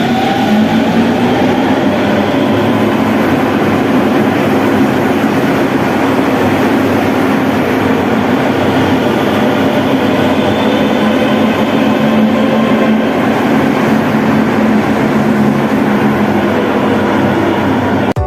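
Mexico City Metro NM-02 rubber-tyred train running, a steady loud rumble with motor tones that shift in pitch near the start.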